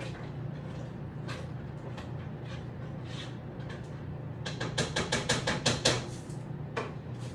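Cooking utensil knocking and scraping in a pot while stirring: a few scattered clicks, then a quick run of sharp strokes, about five a second, about halfway through. A steady low hum runs underneath.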